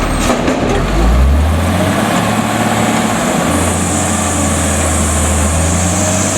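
Autocar front-load garbage truck's diesel engine revving up about a second in, then holding at raised speed, with a steady high hiss joining from about three and a half seconds in.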